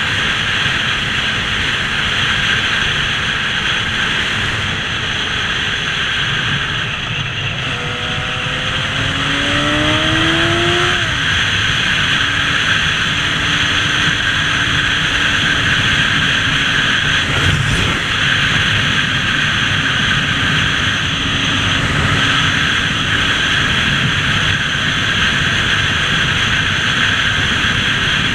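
Steady rush of wind noise on a moving motorcycle, with an engine note rising in pitch as it speeds up about eight seconds in, then holding steady.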